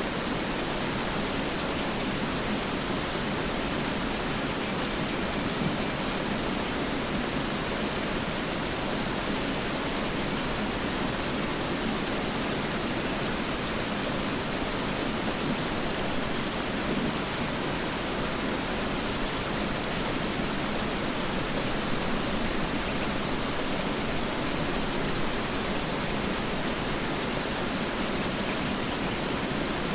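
Mountain river flowing, a steady, even rush of water with no breaks.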